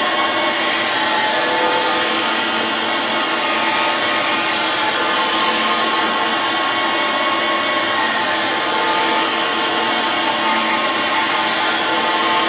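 Surface grinder's abrasive wheel grinding a steel wood chipper blade: a steady hiss of grinding over the machine's even whine, taking light cuts of about two thousandths of an inch a pass.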